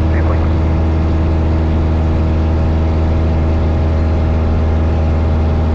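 Engine and propeller of a 1972 Cessna 172 Skyhawk, a Lycoming four-cylinder, running steadily in flight, heard as a constant low drone inside the cabin.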